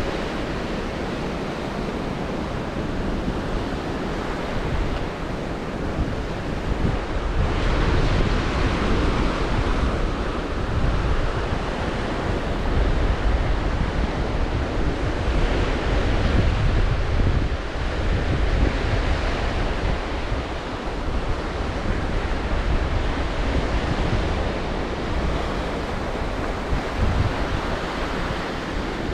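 Black Sea waves breaking and washing on the shore, swelling louder a few times, with strong wind buffeting the microphone as a low rumble.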